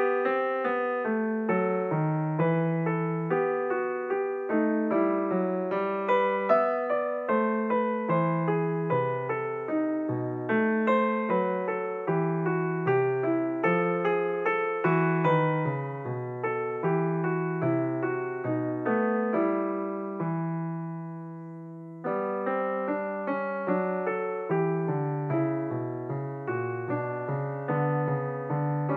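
Background piano music: a steady run of notes, with one chord left to ring and fade about twenty seconds in before the playing picks up again.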